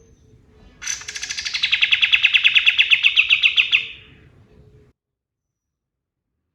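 Kapas tembak song: a rapid, rattling trill of fast repeated notes, about eight a second. It starts abruptly, swells in loudness and stops about four seconds in.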